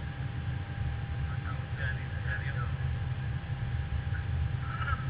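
Steady low rumble and hum of an Airbus A320 heard from on board, with faint muffled voices now and then.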